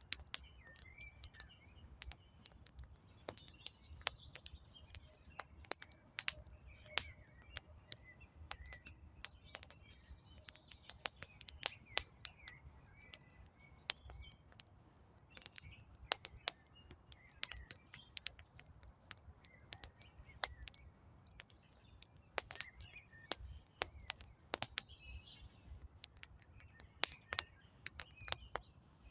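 Wood campfire crackling, with many irregular sharp pops and snaps, over a low steady rumble of the flames. Small birds chirp and sing now and then in the background.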